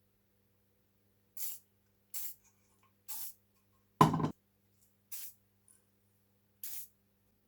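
Short hissing spray bursts, six in all, spaced about a second apart. The fourth, about four seconds in, is the loudest and fullest.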